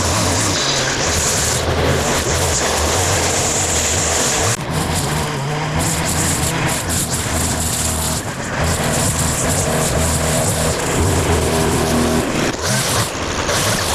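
Engine of petrol-powered lawn or brush-clearing equipment running steadily, dipping briefly twice as the load changes.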